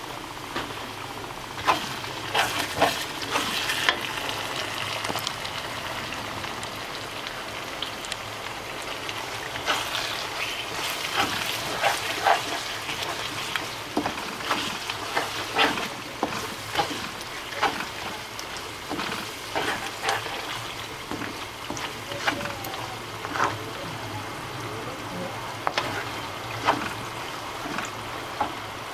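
Blended dried-chilli paste with onion wedges sizzling and bubbling in oil in a wok, stirred with a spatula, with frequent sharp pops and clicks over a steady hiss.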